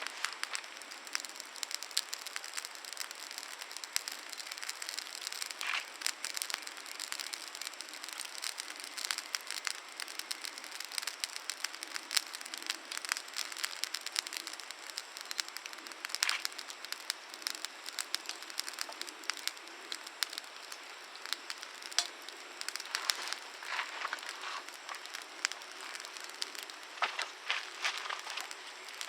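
Campfire crackling, with a steady run of small pops and snaps from the burning wood and a few louder flurries of pops.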